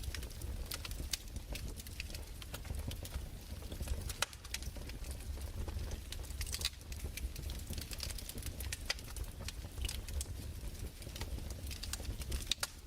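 Fireplace crackling: irregular sharp pops and snaps at a few per second, over a low steady rumble.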